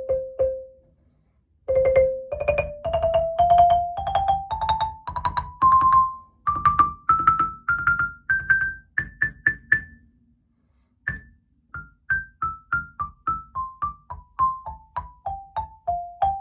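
Sonor Orff Palisono SKX 100 soprano xylophone bars struck with mallets. After the end of a descending run and a short pause, a scale climbs bar by bar with each note struck several times. After another pause near the middle, the scale steps back down with quicker, shorter strikes.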